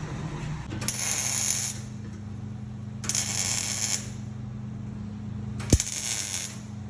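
Exhaust-shop tool work on a truck: three separate hissing bursts of about a second each over a steady low hum, with a sharp click near the end.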